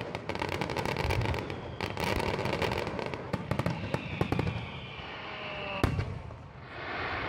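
Fireworks display: dense rapid crackling and popping with several louder bangs. A faint, slowly falling whistle comes in the middle, and a single sharp bang about six seconds in.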